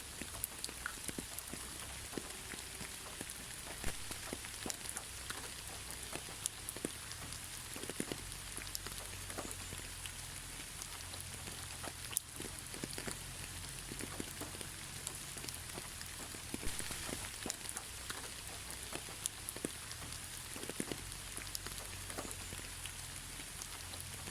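Steady moderate rain, no thunder: an even hiss of rainfall with many separate drops ticking and pattering on surfaces.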